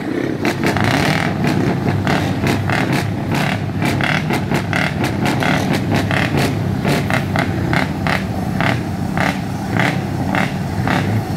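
Scania truck diesel engine running loudly through a straight exhaust, a steady low rumble with many short sharp clicks scattered through it.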